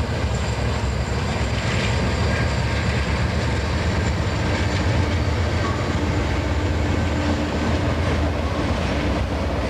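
A train rolling by, a steady rumble of its wheels running on the rails with some clickety-clack.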